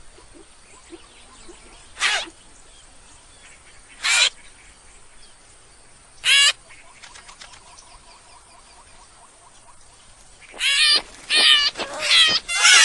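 An animal calling: three short high calls about two seconds apart, then a quick run of calls near the end.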